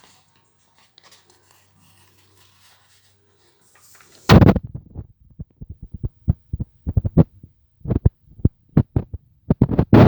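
A loud low thump about four seconds in, then a run of shorter low thumps at uneven spacing, after a few faint seconds.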